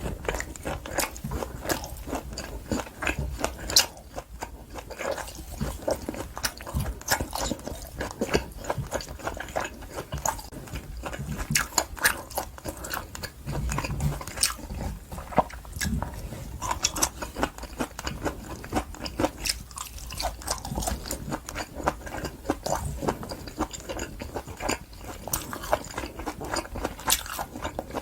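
Close-miked chewing of wagyu top blade steak: a dense, irregular run of short wet mouth clicks as the meat is bitten and chewed.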